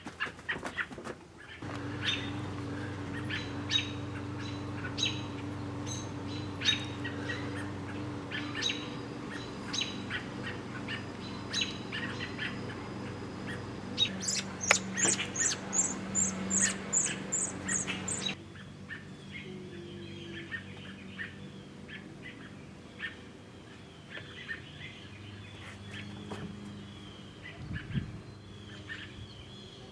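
Birds chirping, with short high calls scattered throughout and a quick run of about ten chirps just past the middle. A low steady hum underneath cuts off suddenly about two-thirds of the way through, leaving the chirps quieter.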